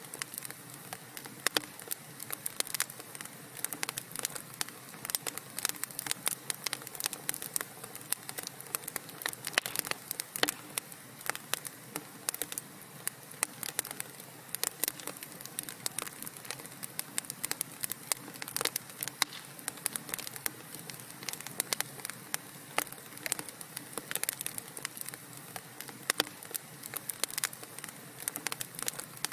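Wood fire in a fireplace crackling and popping with many irregular small snaps over a steady hiss of burning.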